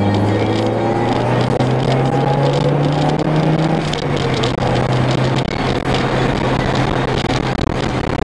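Mazda MX-5's four-cylinder engine pulling under acceleration, heard from inside the car: its pitch rises for about four seconds, then drops back and holds steady, over constant road and wind noise.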